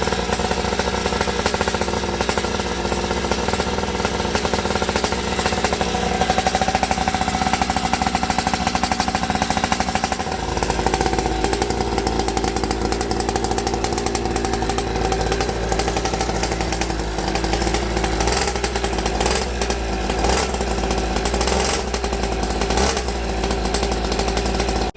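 Small 50cc two-stroke engine of a mini motocross bike running steadily. About ten seconds in, its note changes and a deeper low rumble comes in.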